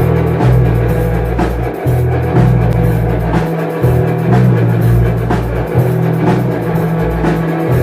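Live rock band playing: drum kit beating steadily under a heavy bass line that moves between notes, with guitar in the mix.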